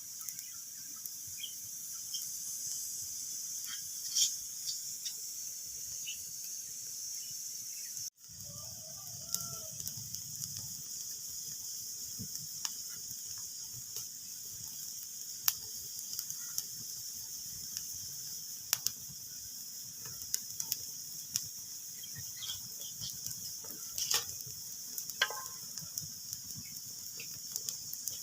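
Wood fire crackling in a fireplace: a steady hiss with irregular sharp pops and snaps, a few of them louder. The sound cuts out for an instant about eight seconds in.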